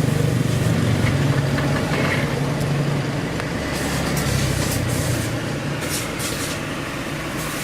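Mini refrigerator compressor running with a steady low hum after refrigerant recharge, the system under test.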